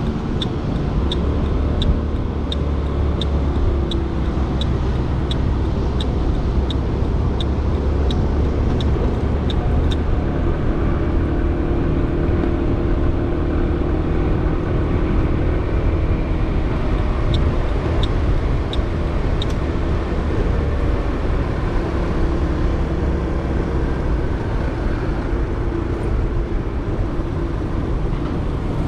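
A motorcycle riding at about 40–50 km/h, heard from a helmet-mounted GoPro Hero 8 behind a wind-reducing foam sponge: steady low wind rumble mixed with the engine. Short high beeps repeat about every 0.6 s for the first ten seconds, and a few more come again later.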